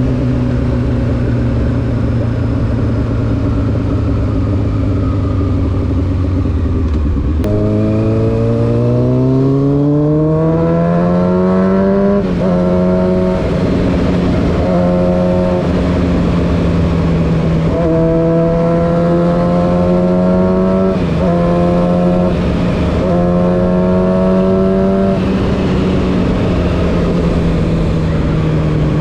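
Honda CBR600F4's inline-four engine running through an SC Project aftermarket exhaust while riding. The engine note sinks for the first several seconds as it slows, jumps up sharply, climbs as it accelerates, then holds a steady pitch with brief dips as the throttle is eased on and off.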